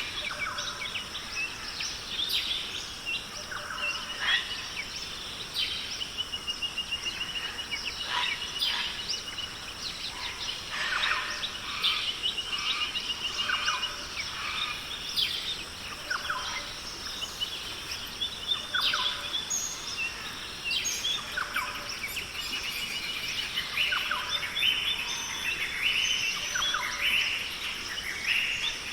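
Australian rainforest bird chorus: many birds calling at once with varied chirps, whistles and a rapid trill, over a steady high-pitched hiss.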